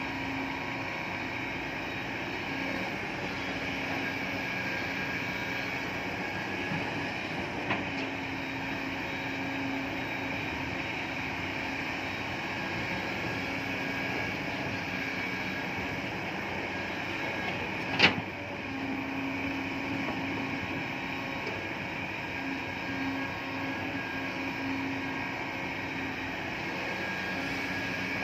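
Steady running noise of a vehicle or machine with a faint on-and-off hum, broken by a small click about eight seconds in and a sharp, loud click about eighteen seconds in.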